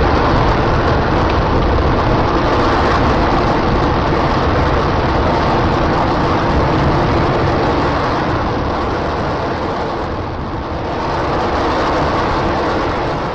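Space shuttle rocket engines roaring: a loud, steady, rushing roar with a deep rumble underneath. It dips a little about ten seconds in, swells again, and starts to fall away at the end.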